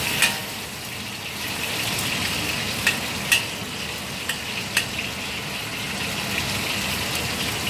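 Pieces of salmon sizzling as they pan-fry in hot oil in a wok, a steady hiss, with a spatula clicking against the wok several times as the pieces are turned.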